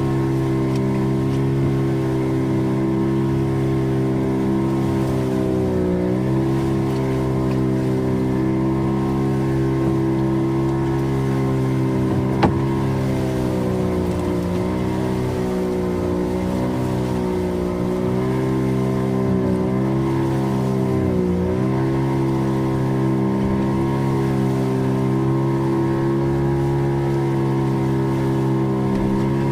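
A fishing boat's engine running steadily at trolling speed. Its pitch dips briefly and recovers three times, and there is one sharp click about midway.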